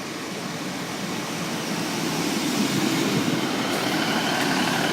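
Class 150 Sprinter diesel multiple unit coming into the platform, its engine and wheels on the rails growing steadily louder.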